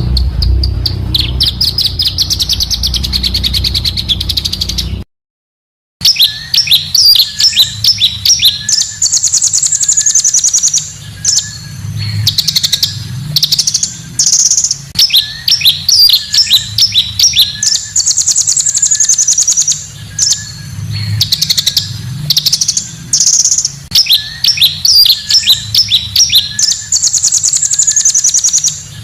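Small songbirds singing a compiled, looped song: a fast trill over a low hum, then after a brief break about five seconds in, rapid harsh chattering bursts mixed with rising-and-falling whistled phrases. The same sequence repeats about every eight seconds.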